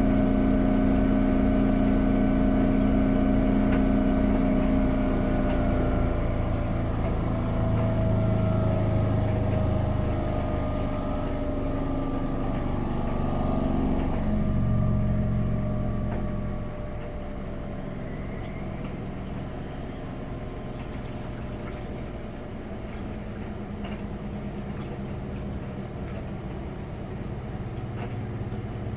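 Miele Novotronic W921 washing machine winding down from a spin: the motor and drum whine slides slowly down in pitch. About fifteen seconds in it drops quieter, leaving a low steady hum.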